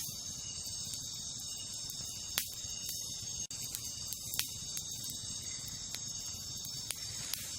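Wood campfire burning with a low rumble and scattered sharp crackles and pops, the clearest about two and a half and four and a half seconds in, over a steady high chorus of night insects such as crickets. The sound drops out for an instant about halfway through.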